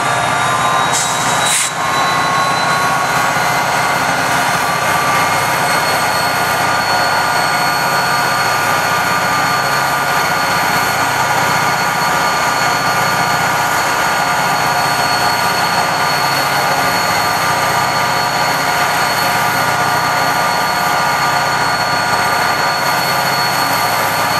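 EMD SD40-2 locomotive's turbocharged V16 16-645E3C diesel engine running at or near full throttle, with a high turbocharger whine over the engine sound. The pitch climbs slightly in the first couple of seconds and then holds steady, and there is a brief click about a second and a half in.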